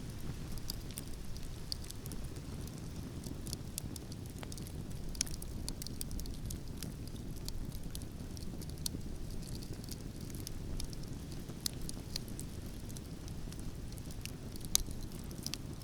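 Campfire crackling, with scattered sharp pops, the loudest near the end, over a steady low rumble of wind.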